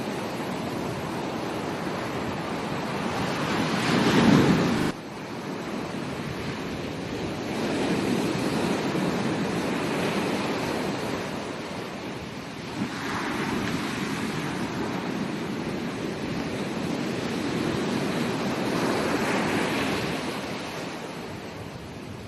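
Ocean waves breaking and washing up the beach in slow surges every few seconds. The loudest surge comes about four seconds in and cuts off suddenly.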